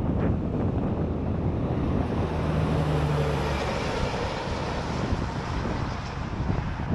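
Wind buffeting the microphone, with a vehicle passing on the highway: its tyre and engine noise swells about halfway through and fades again.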